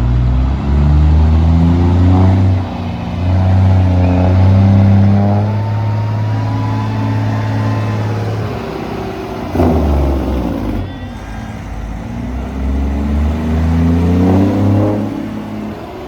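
Semi-truck diesel engines pulling away, revving up through the gears. The engine pitch climbs several times as each gear winds out.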